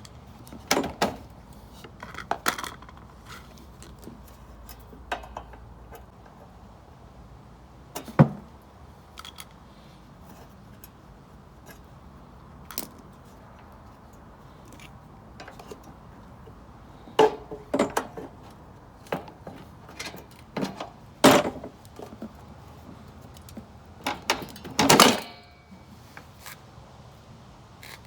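Metal tools and mower parts clinking and knocking as a lawn mower is taken apart by hand: scattered clicks, a sharp knock about eight seconds in, and a longer clatter near the end.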